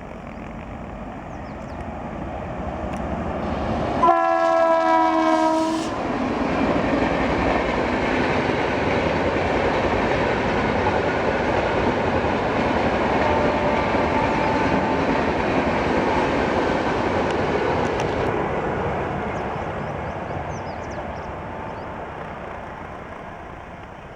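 Indian Railways express train passing through a station at speed. Its locomotive sounds one horn blast lasting about two seconds, about four seconds in, as it arrives. The noise of the coaches rushing past follows for about twelve seconds, then fades away.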